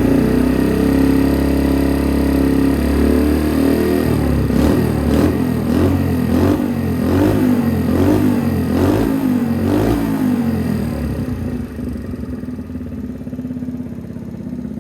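Honda Magna 50's small four-stroke single running through an aftermarket muffler: it idles steadily, then takes about eight quick throttle blips, each rising and falling in pitch, before settling back to idle.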